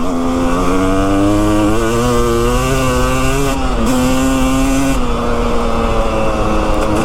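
Two-stroke dirt bike engine running under load on a climb, its revs rising and falling, with a sharp dip about four seconds in and a lower steady pitch in the last couple of seconds.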